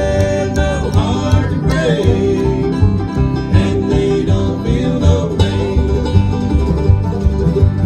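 Bluegrass band playing, with banjo and guitar over a steady low beat and held notes that bend in pitch.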